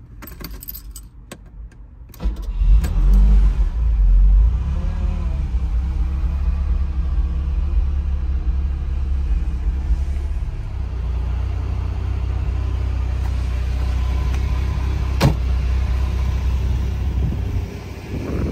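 Light clicks, then the Ferrari 308 GTB Quattrovalvole's 2.9-litre V8 starts about two seconds in, flares up in revs for a couple of seconds and settles to a steady idle, heard from inside the cabin. A single sharp click about fifteen seconds in.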